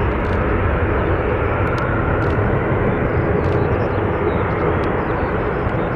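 Jet airliner's engines running loud and steady, a dense rushing noise with a faint whine in it.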